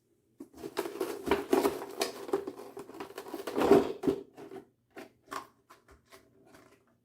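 Close-up handling of trading cards and their packaging: dense crinkling and tapping for about four seconds, then a few scattered ticks and taps.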